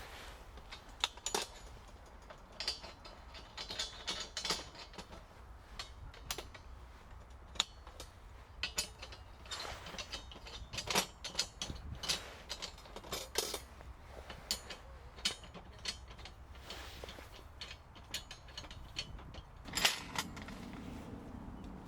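Camping gear being handled: irregular clicks, clinks and light knocks, some close together and some a second or more apart.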